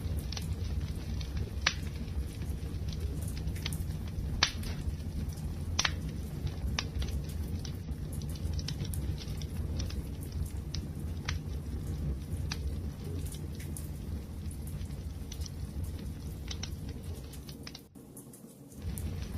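Wood fire burning, with a steady low rumble of flames and scattered crackles and a few sharper pops from the burning wood. The sound drops away briefly near the end, then resumes.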